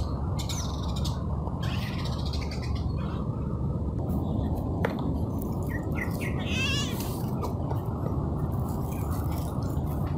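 A steady low outdoor rumble with a few short high chirps, and one warbling, wavering call a little past halfway, typical of birds.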